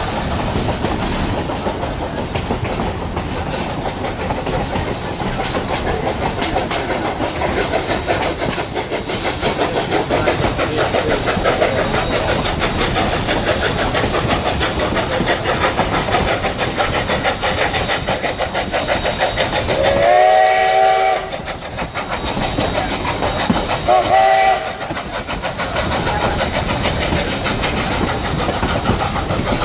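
Narrow-gauge steam train rolling along, its wheels clattering over the rail joints in a steady run of rapid clacks, heard from aboard. A long blast of the locomotive's steam whistle sounds about 20 seconds in, then a shorter blast about 24 seconds in; the whistle is the loudest sound.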